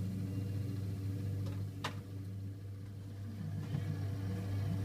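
Small CK exhaust fan running with a steady low hum. A single short click about two seconds in.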